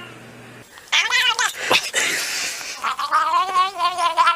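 A domestic cat yowling, starting about a second in: a few wavering, drawn-out calls, the last one long with a quavering pitch.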